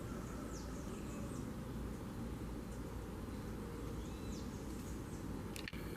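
Small birds giving short, high chirps that fall in pitch, a few at a time, over a steady low outdoor rumble. A couple of sharp clicks come near the end.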